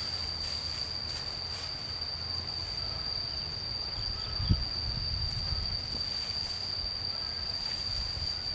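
Insect calling in one steady high tone, over a low rumble, with a single dull thump about halfway through.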